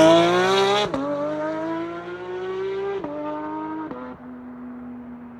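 Car engine and exhaust accelerating hard through the gears: the pitch climbs, then drops sharply at upshifts about a second in, at about three seconds and near four seconds, before settling at a steady pitch as the sound fades away.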